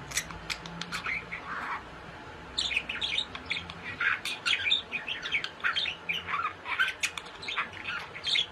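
Pet bird chirping in quick, short calls, with a brief lull about two seconds in and then a dense run of chirps.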